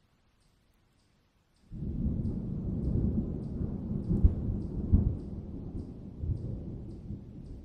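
A roll of thunder that breaks in suddenly about two seconds in, a deep rumble with two sharper cracks near the middle, then slowly easing off.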